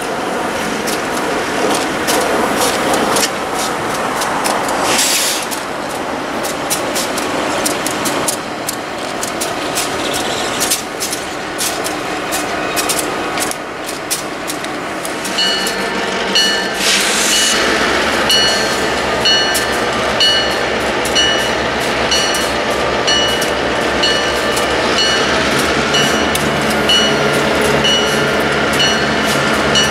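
Freight train led by an EMD GP38-2 diesel locomotive rolling slowly past, its wheels clicking and knocking. From about halfway in, a locomotive bell rings steadily a bit more than once a second, and the diesel engine's low rumble grows as the locomotive comes close.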